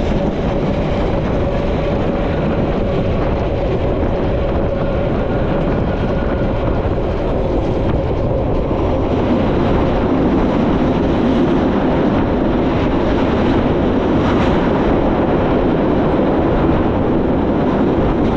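Metre-gauge train running along the line: a loud, steady rolling noise with a faint held tone that fades away over the first half. The noise grows a little louder about halfway through.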